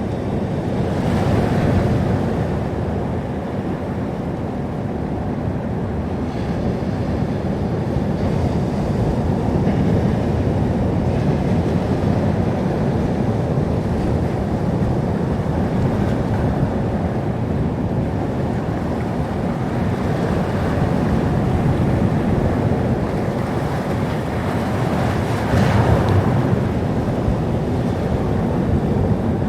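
Sea surf: a continuous rush of waves washing ashore, with louder breakers about a second in and again near the end.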